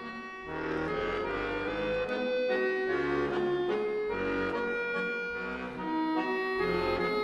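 Background music led by a melancholy accordion melody over sustained chords and a slow bass line.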